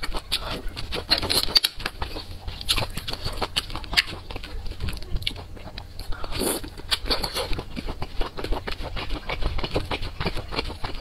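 Close-miked eating: a person chewing thick noodles in sauce, with many small mouth clicks. A bite into a sauce-glazed piece of food on a skewer comes about six seconds in.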